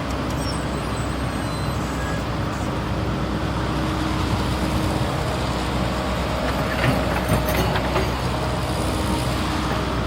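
CAT 320 GC hydraulic excavator's diesel engine running steadily, with a few short knocks a little past the middle.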